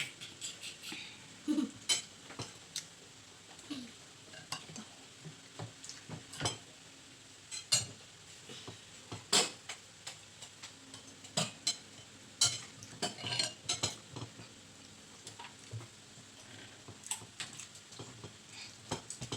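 Cutlery clinking and scraping against a plate during a meal, in short, irregular sharp clicks.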